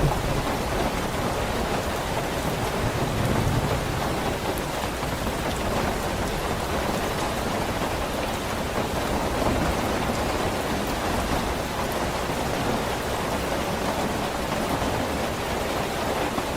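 Steady rain falling, an even, unbroken hiss of drops. A low rumble sits under it in the first few seconds.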